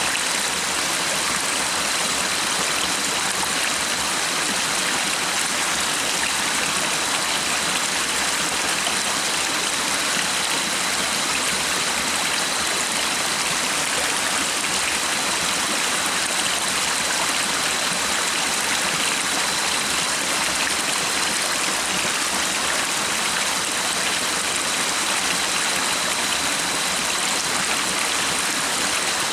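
A stream running with a steady, even rush of flowing water.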